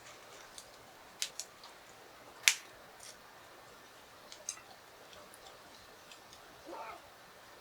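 Scattered sharp clicks and taps, about ten of them, the loudest about two and a half seconds in, with a short sound that bends in pitch near the end.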